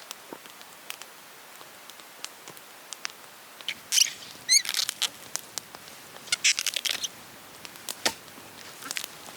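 Light handling noises: scattered clicks and taps, with two short bursts of crinkly rustling about four and six and a half seconds in, a brief squeak in the first, and a sharp knock about eight seconds in.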